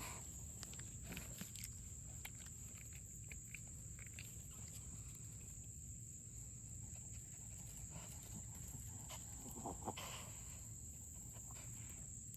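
A steady high-pitched chorus of insects buzzing outdoors, with soft scattered rustling and clicks, and a brief louder sound about ten seconds in.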